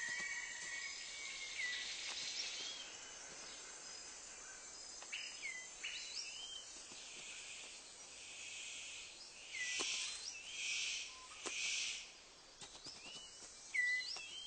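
Tropical forest ambience: a steady high insect hiss with scattered short, hooked bird whistles, and three louder bursts of hissing noise about ten to twelve seconds in.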